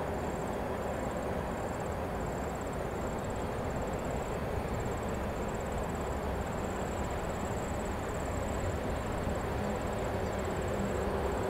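Electric locomotive approaching along the track from a distance: a low, steady rumble that grows slowly louder.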